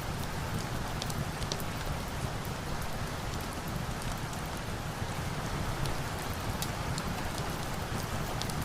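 Steady rain falling, an even hiss with scattered small sharp ticks of drops or crackles throughout.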